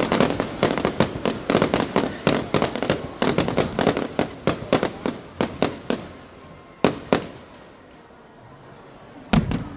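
Fireworks going off: a rapid, dense string of sharp bangs and cracks that thins out about six seconds in. Two more sharp bangs follow, then one heavier boom near the end.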